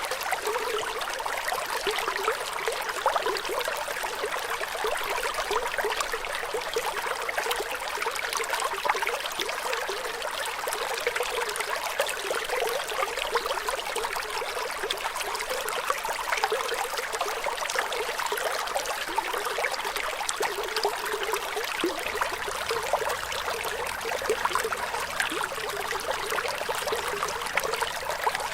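Flowing water: a small stream running steadily with a constant trickling rush and almost no low rumble.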